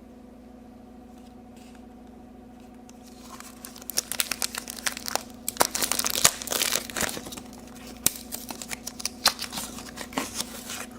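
Toy packaging being crinkled and torn open by hand, a dense crackling that starts a few seconds in and goes on in irregular bursts, over a faint steady hum.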